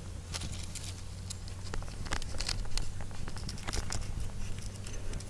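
Irregular small clicks, crackles and rustles from hands working a small bird loose from a sticky glue trap, over a steady low hum.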